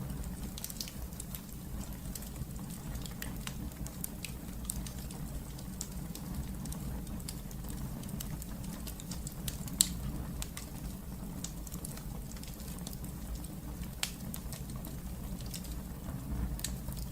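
Wood fire burning in a fireplace: irregular small crackles and pops over a steady low rumble of the flames, with one louder pop about ten seconds in.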